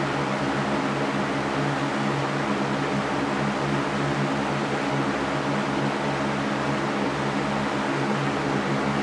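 Electric fan running steadily: an even rushing noise with a low motor hum underneath.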